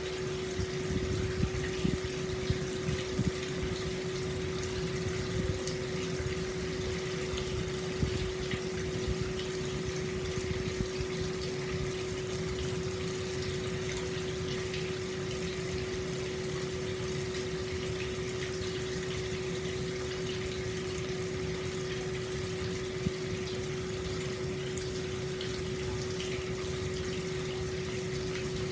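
Hot spring water flowing steadily from the spout into an open-air bath, with a steady hum-like tone running underneath and a few small splashy peaks in the first ten seconds.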